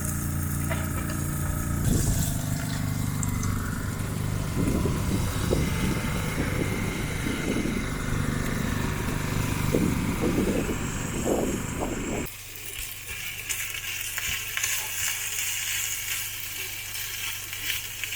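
Strong gusting wind buffeting the microphone, with irregular low rumbles over a steady hiss. About 12 seconds in it drops suddenly to a quieter hiss.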